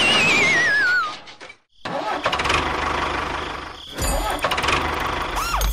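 Dubbed engine sound of a toy tractor mixed with cartoon sound effects: a wobbling whistle sliding down in pitch in the first second, then a brief cut to silence. The engine noise resumes, a sudden hit comes about four seconds in as the tractor tips into the water channel, and a short whistle rises and falls near the end.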